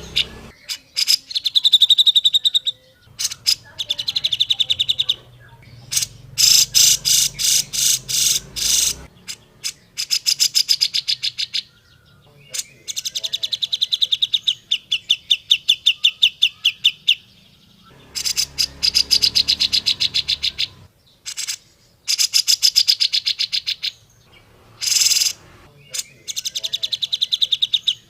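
Grey-cheeked bulbul (cucak jenggot) calling in bursts of fast, evenly repeated chattering notes, each run lasting a few seconds with short breaks between.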